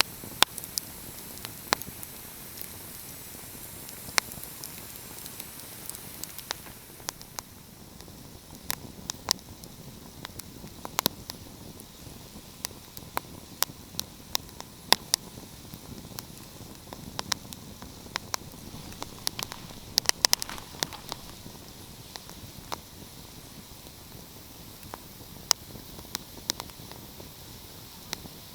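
Wood fire crackling: irregular sharp pops and snaps, sometimes in quick clusters, over a steady soft hiss.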